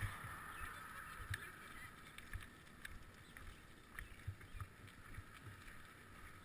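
Bicycle riding noise: a steady hiss with scattered small clicks and knocks from the moving bike.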